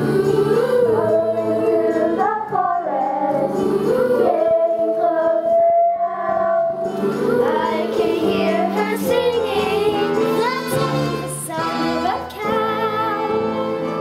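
Children singing a song with instrumental accompaniment, the voices holding and gliding between long notes over steady chords.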